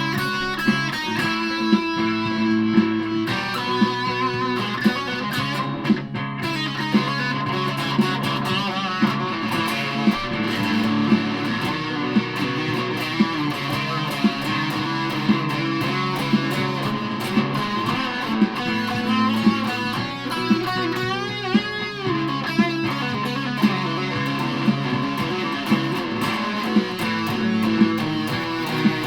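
Aria Pro II Thor Sound electric guitar played through a Joyous Dream super fuzz pedal, sustained notes and lines over a steady beat of about one hit a second.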